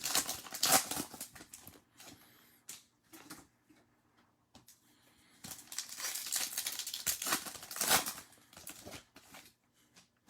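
Crinkling and tearing of trading card pack wrappers being opened by hand, in two stretches of rustling with a quieter pause between.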